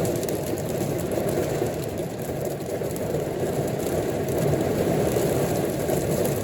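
Steady rain falling, an even rushing hiss with no let-up.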